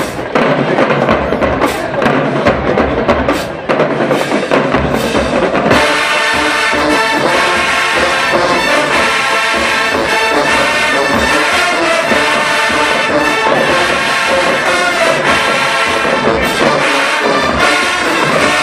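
HBCU marching band playing loud, with brass and drums. Sharp drum hits punctuate the first few seconds, then the horns hold full sustained chords.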